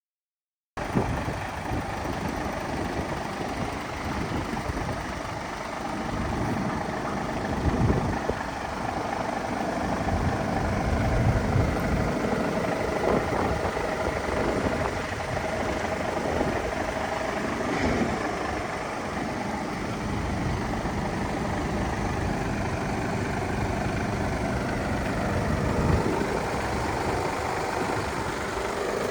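Mercedes Actros MP5 1845 truck's 12.8-litre straight-six diesel idling steadily.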